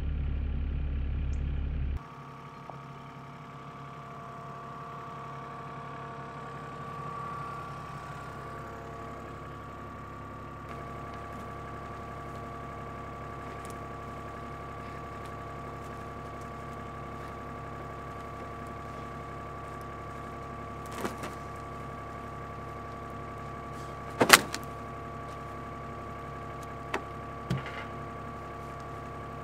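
Excavator engine running steadily with a steady whine, after a louder low rumble that cuts off abruptly about two seconds in. A few sharp metallic clanks come near the end, the loudest about two-thirds of the way through.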